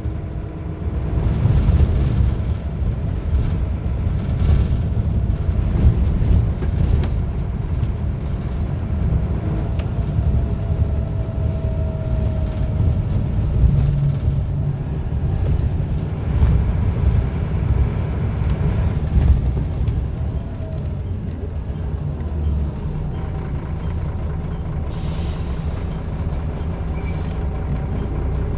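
Scania L94UB single-deck bus's diesel engine running through its ZF automatic gearbox, the engine note rising and falling with load. About two-thirds of the way through it settles to a steadier, quieter run, and near the end there is a short hiss of compressed air from the air brakes.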